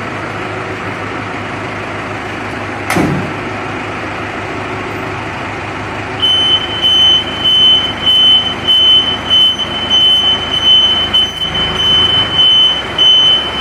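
Tow truck running in an enclosed parking garage, with a single knock about three seconds in. About six seconds in, a steady high-pitched tone starts and keeps going, wavering in loudness.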